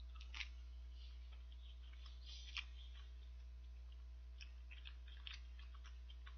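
A person chewing a soft boiled dumpling with the mouth close to the microphone: faint wet mouth clicks and smacks. Two stand out, about half a second and two and a half seconds in, and a run of small clicks comes near the end.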